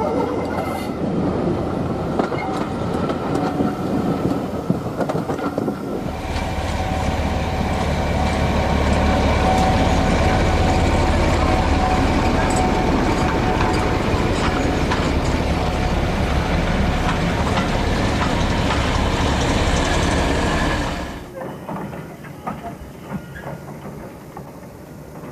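Diesel locomotive running with train noise. About six seconds in it swells into a loud, steady engine rumble with a held tone, then drops off sharply near the end, leaving quieter running with scattered clicks of wheels over rail joints.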